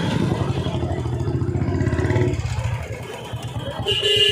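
Road traffic: a motor vehicle engine running steadily, easing off after about two seconds. Near the end comes a pulsing high tone that fits a vehicle horn honking.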